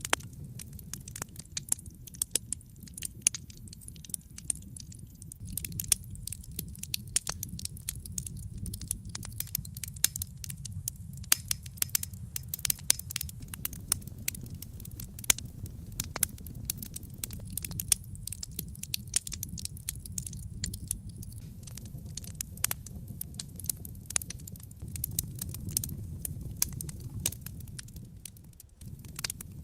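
Wood fire burning in a fireplace: irregular crackles and pops, busiest in the middle stretch, over a steady low rush of flame.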